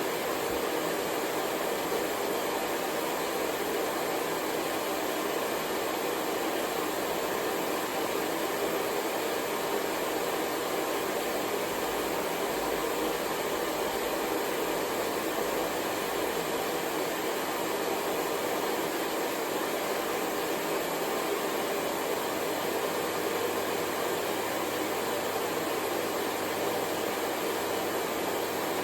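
Hair dryer running steadily: an even, unchanging rush of air with a faint steady hum under it.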